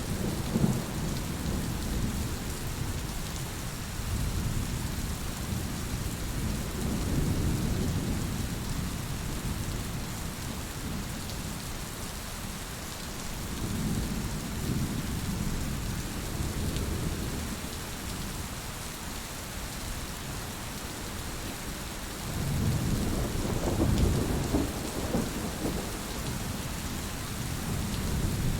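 Steady heavy rain hissing, with low rolling thunder that swells and fades three times.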